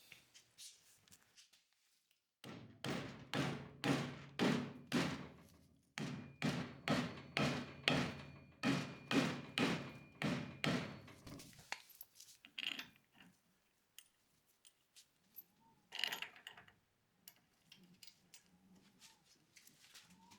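Mallet tapping a torsion bar cover into place on a VW Beetle chassis: a steady run of strikes, about two a second, with a short break partway through, and one more blow a few seconds later.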